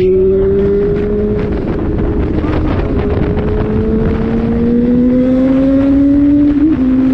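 Honda Hornet motorcycle engine pulling under acceleration, its note climbing steadily in pitch, with a brief dip near the end, over wind rushing past the microphone.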